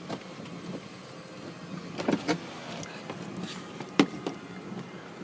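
Car engine idling steadily, with a few knocks a couple of seconds in and one sharp click about four seconds in.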